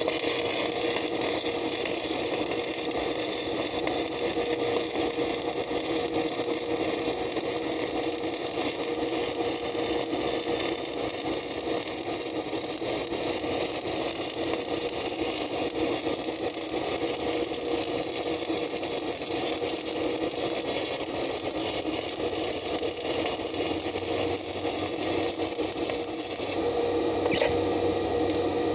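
Stick (shielded metal arc) welding on steel: the arc crackles and sizzles steadily over a steady hum, and the hiss cuts off near the end, followed by a light knock.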